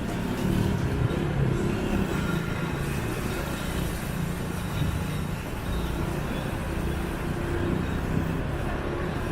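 Motorbike engine running steadily while riding in traffic, with a low hum that wavers in pitch under wind and road noise.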